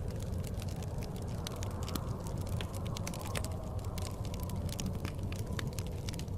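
Wood fire crackling in a fireplace, with frequent small sharp pops at irregular intervals over a steady low rumble of blizzard wind.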